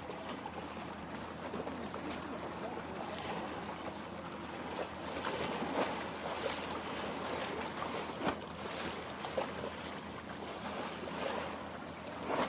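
Small waves lapping at a lake shore: a steady wash of moving water, with a few sharper splashes of water in the second half.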